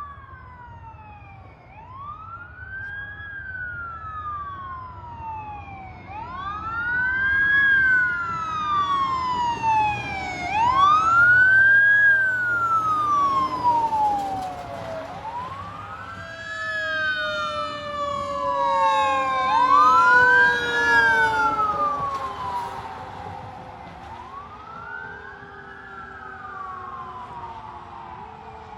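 Fire engine sirens wailing, two of them overlapping, each sweeping up quickly and falling slowly every four to five seconds. They grow louder to peaks about a third of the way in and again about two-thirds in, then fade, over a low truck engine rumble.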